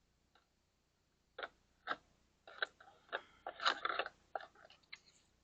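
Oil filter pliers clicking and scraping on the oil filter of a Mercury 60 HP four-stroke outboard as it is gripped and worked loose: a couple of single clicks, then a quick run of clicks and scrapes.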